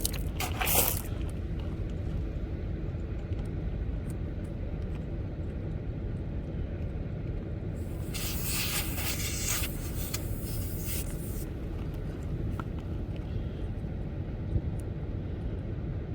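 Air hissing from a tire valve for about three seconds around halfway, as a portable air pump's hose chuck is fitted onto the valve, over a steady low rumble.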